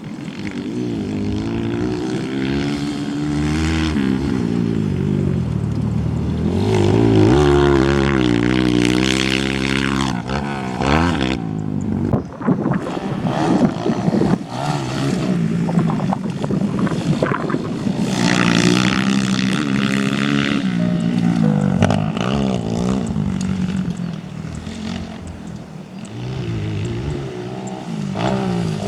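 Off-road motorcycle engines revving, the pitch climbing and dropping again and again as the bikes accelerate and ease off, with louder stretches about a third and two-thirds of the way through and a quieter spell near the end.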